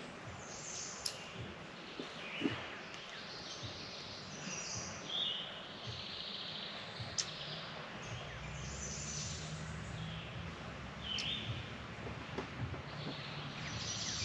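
Birds chirping and calling, with short repeated chirps and trills. A low steady rumble joins about halfway through.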